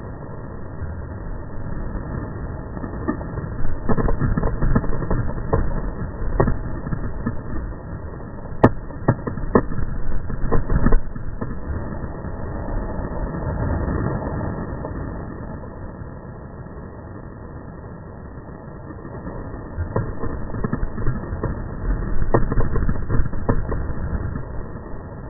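Kayaking on a river: a steady rumble of water and wind noise on the camera, with two bouts of knocks, clatter and scraping, one a few seconds in and one near the end, as of the kayak hull and paddle hitting wood.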